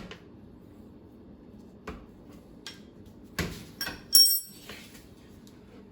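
Metal hand tools and parts clinking and knocking: about five sharp clanks, the loudest a little past four seconds in with a brief metallic ring.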